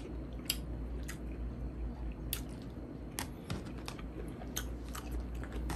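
A person chewing food with the mouth, making uneven wet clicks and smacks, over a low steady hum.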